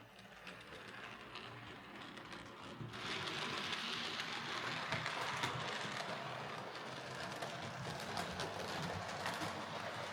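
Hornby OO gauge Class A4 model steam locomotive running along the layout track: its small electric motor whirs and the wheels click over the rails, getting louder about three seconds in. It runs freely with its slipping motor now shimmed tight, no longer jamming the gears.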